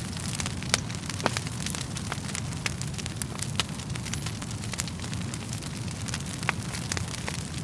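Wood fire burning in a fireplace: a steady low rumble of flames with irregular sharp crackles and pops from the burning logs, a few of them louder than the rest.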